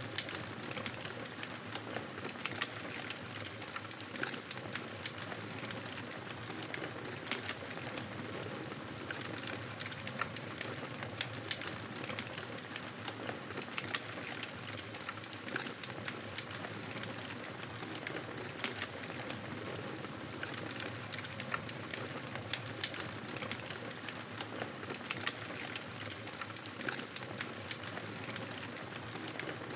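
Wood fire crackling steadily: many small irregular pops and snaps over a constant soft hiss of burning.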